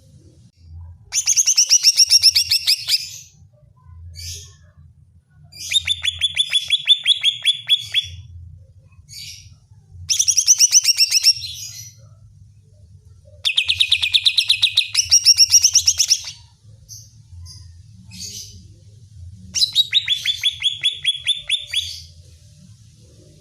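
Cucak ijo (green leafbird) singing in five bursts of fast, rapid-fire repeated notes, each about two seconds long, with short single calls between them.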